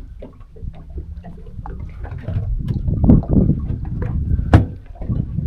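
Water slapping and gurgling against the hull of a boat lying at anchor, with wind buffeting the microphone. Small irregular knocks throughout and one sharp knock about four and a half seconds in.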